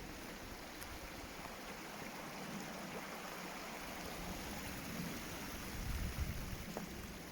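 Steady rush of stream water running through woodland, with a few soft low thumps in the second half.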